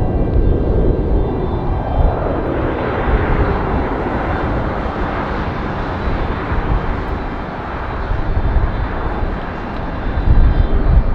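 Jet airliner passing close by, its engines making a loud, wide roar that builds over the first few seconds and eases toward the end, over a steady low rumble.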